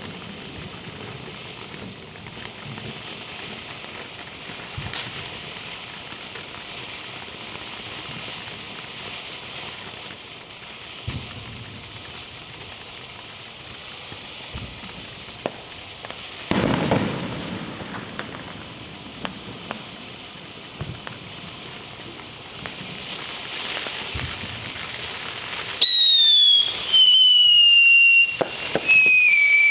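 A traffic signal burning inside a microwave oven: steady crackling with scattered sharp pops and one louder burst about halfway through. Near the end come three loud horn blasts, each falling in pitch.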